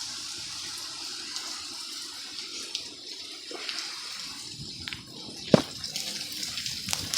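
Heavy rain falling steadily as an even hiss, with scattered sharp taps and one loud knock about five and a half seconds in.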